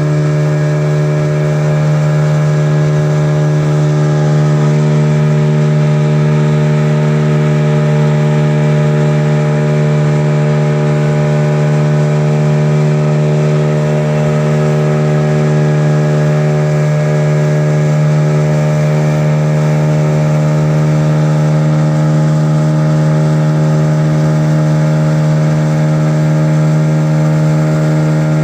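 A boat's engine running at a steady speed, a constant low drone with an even hum.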